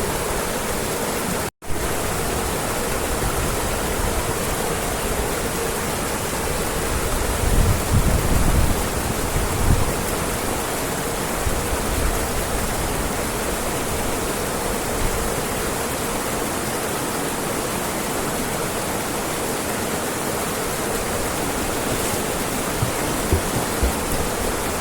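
Rushing water of a river waterfall, a steady loud hiss. It cuts out for an instant about a second and a half in, and there are a few low bumps around the middle.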